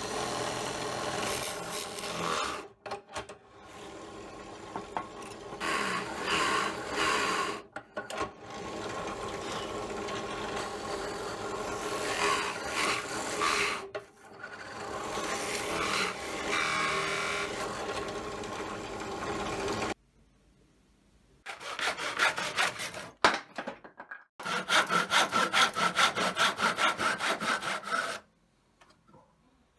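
Wood being worked by hand: about twenty seconds of continuous rubbing and rasping, then after a short break a quick run of back-and-forth sawing strokes, several a second.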